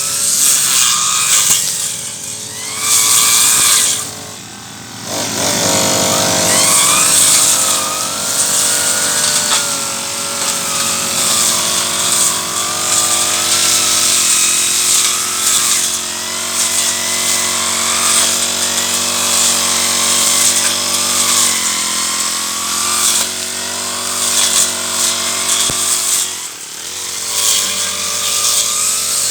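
Petrol brush cutter running at high revs while cutting weeds. The engine drops briefly to idle about four seconds in, then revs back up, and dips again near the end.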